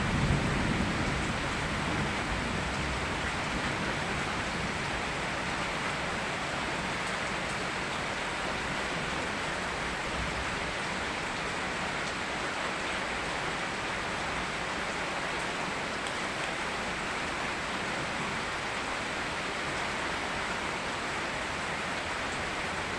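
Steady rain falling, an even hiss with no change. A low thunder rumble dies away in the first second.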